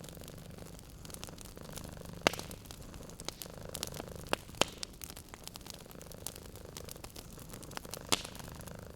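Wood fire crackling with sharp, scattered pops, over a cat's low, steady purring.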